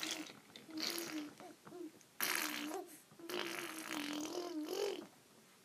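A 4-month-old baby making drawn-out, raspy vocal noises, three in a row with short pauses between.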